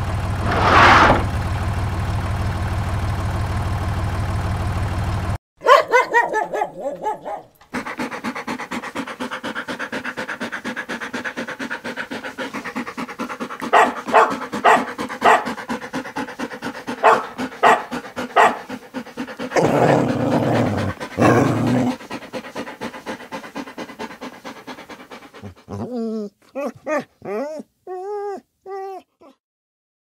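A dog's vocal sounds: short sharp barks in the middle and a few brief whines that rise and fall near the end. They follow a steady low engine drone from the cartoon tractor in the first few seconds.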